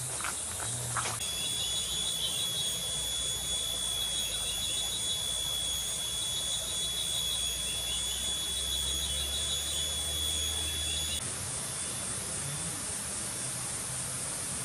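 Insects trilling: a high, steady, finely pulsing trill starts about a second in and cuts off suddenly some ten seconds later, over a constant high hiss of other insects. A brief dull rumble comes in shortly before the trill stops.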